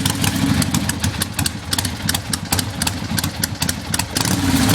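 1975 Harley-Davidson Ironhead Sportster's air-cooled V-twin idling, with a quick, uneven run of firing pulses.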